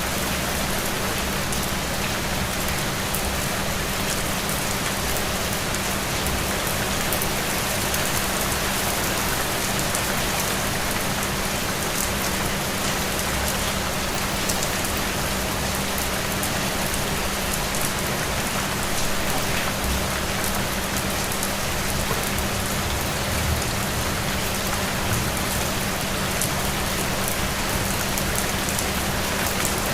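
Steady rain falling, an even hiss with scattered distinct drop ticks.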